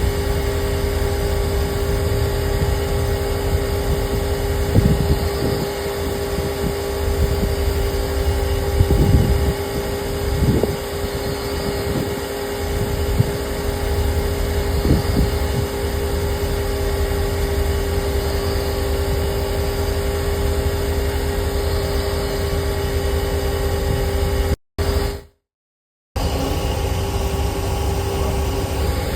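A vehicle's engine idling with a steady hum and a low rumble. The sound drops out briefly about 25 seconds in.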